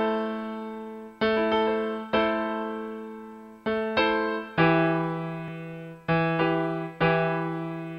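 Slow piano chords, each struck and left to fade before the next, roughly one a second.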